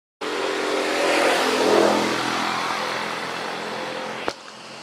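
A motor vehicle engine running close by, growing louder for about two seconds and then easing off. It ends abruptly with a click shortly before the end.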